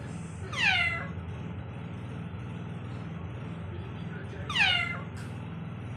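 Pet parrot giving two short calls, each falling steeply in pitch like a cat's meow, a few seconds apart, over a steady low hum.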